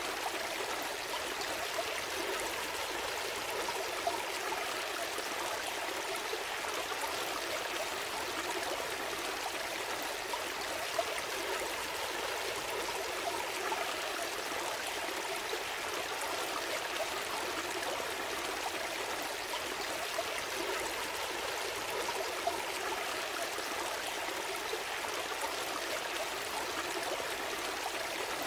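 Small stream flowing steadily, a continuous rush of water with small trickling and splashing sounds.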